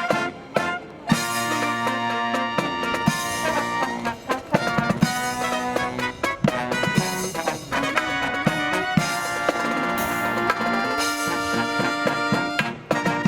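Marching brass band of trumpets, trombones and drums playing a Christmas medley, with sustained brass chords over regular drum strikes.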